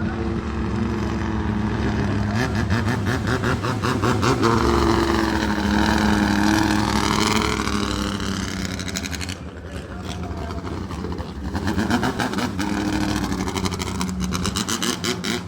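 Racing boat engine running hard at high revs, a fast even pulsing that swells as the boat passes, drops off about ten seconds in, then builds again as another pass comes.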